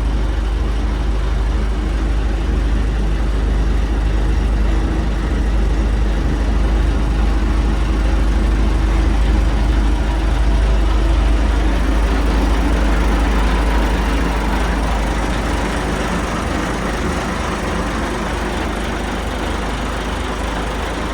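Yamaha DY39 boat's engine running steadily after being started, a little quieter in the last third.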